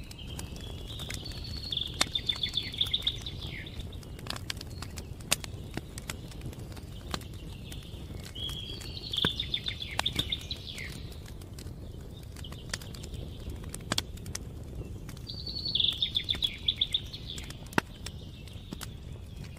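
A songbird singing three short phrases, each a quick run of repeated high notes, several seconds apart, over a crackling campfire with scattered sharp pops.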